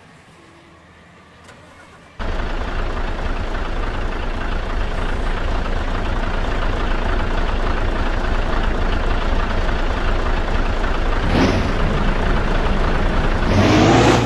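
Bus engine running loudly with a deep rumble, cutting in suddenly about two seconds in. Near the end two short rising sweeps sound over it.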